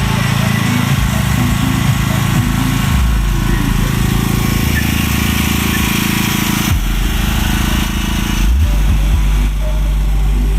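Large outdoor sound system playing music at high volume, with heavy bass whose low notes change every few seconds and a rough, noisy top.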